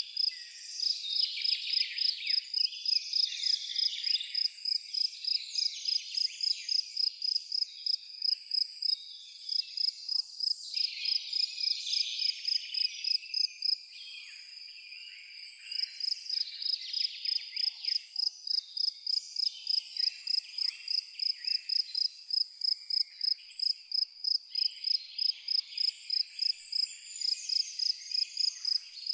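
An insect, like a cricket, chirping in an even high-pitched pulse of about three chirps a second, with a pause of about two seconds midway. Behind it is a dense chorus of other high chirping.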